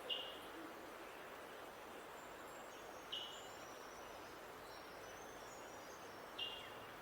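A bird giving a short, sharp call three times, about three seconds apart, with faint high-pitched twittering from other birds in the middle and a steady outdoor background hiss.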